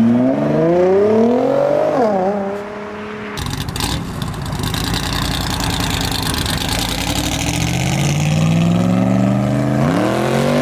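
A car engine revving hard as the car accelerates away, its pitch climbing steeply, dropping sharply about two seconds in and climbing again briefly. A stretch of rushing noise follows, then near the end another engine revs up, rising steadily in pitch.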